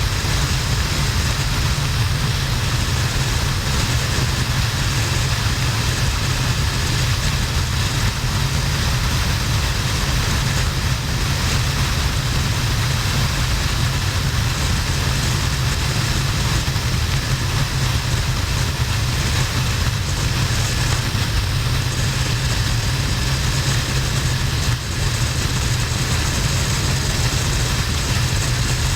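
Harley-Davidson XL1200N Sportster's air-cooled V-twin running steadily at motorway speed, with heavy wind rush over the helmet-mounted camera.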